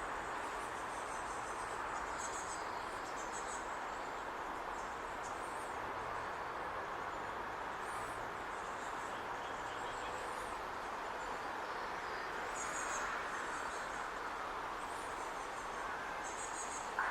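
Outdoor ambience: a steady hum of distant background noise, with short, high-pitched chirring trills every few seconds and a brief click near the end.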